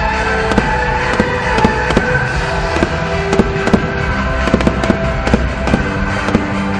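Aerial fireworks going off in quick, irregular succession: many sharp bangs and crackles over music with long held notes.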